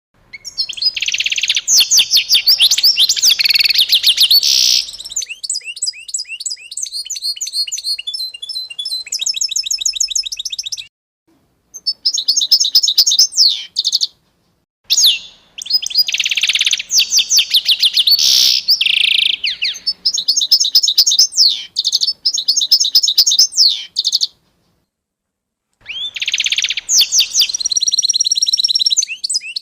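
A songbird singing loudly in fast trills and rapid runs of repeated high notes. The song stops dead in total silence three times, where separate recordings are spliced together.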